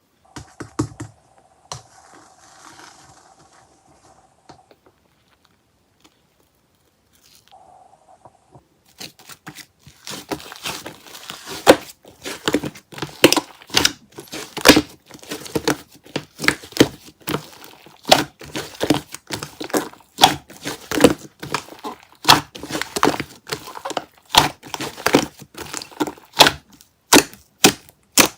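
Hands squishing and poking a fluffy slime, the 'soda cotton candy' type. It is faint for the first several seconds, then from about nine seconds in comes a dense run of crackling pops and clicks, several a second.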